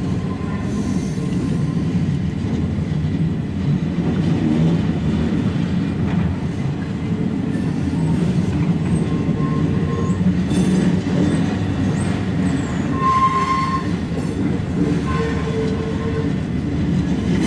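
Freight train of loaded flatcars rolling past close by: a steady rumble of steel wheels on the rails, with short wheel squeals now and then.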